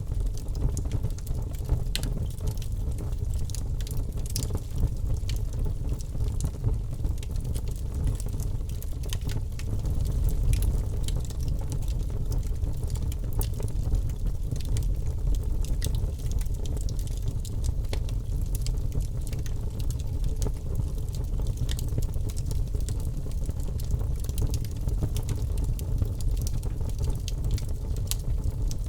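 Campfire crackling, with frequent sharp irregular pops and snaps over a steady low rumble.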